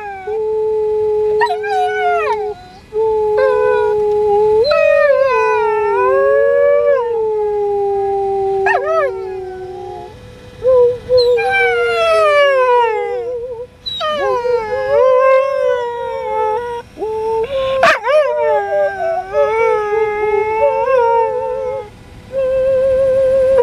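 A pet dog and its owner howling together, a run of long drawn-out howls that glide up and down in pitch and sometimes waver, often overlapping, with short breaks between them.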